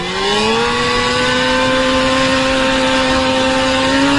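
Small motor scooter's engine pulling away: its pitch rises during the first half second, then holds nearly steady at a higher speed as the scooter rides by.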